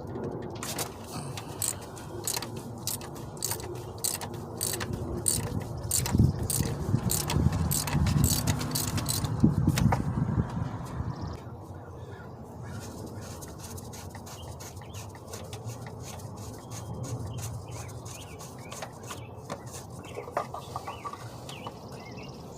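Socket ratchet clicking in repeated strokes while loosening the oil filter housing cap with a 1 1/4-inch low-profile socket, with scraping and heavier knocking around the middle. The clicking stops a little past halfway, leaving only sparse light handling clicks.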